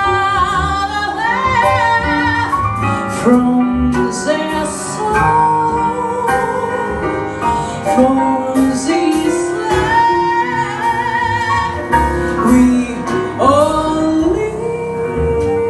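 Jazz song: a woman's voice sings long, held notes with vibrato over a band accompaniment with piano.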